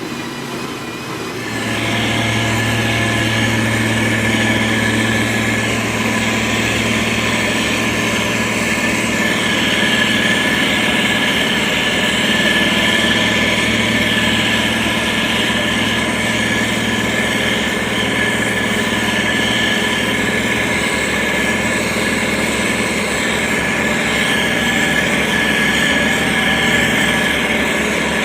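Diesel engine of heavy road-building machinery running steadily with a high whine over the low drone, growing louder about one and a half seconds in and then holding steady.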